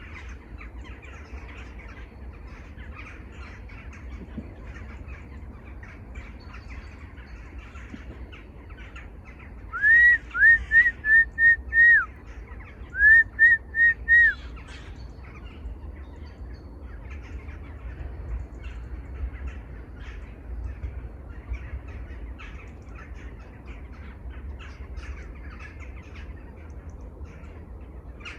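Birds calling steadily in a dense chorus of short calls. About ten seconds in, one bird gives a loud series of five clear, arching calls, pauses briefly, then gives four more.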